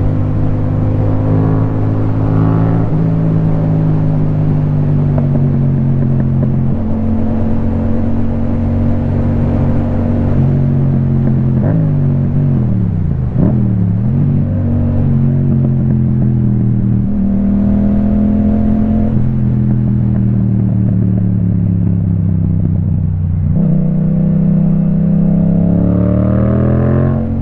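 Yamaha MT-07's parallel-twin engine running through an Akrapovic titanium exhaust while riding. The revs hold steady with several steps in pitch, drop and climb again about halfway through, and rise near the end as the bike accelerates.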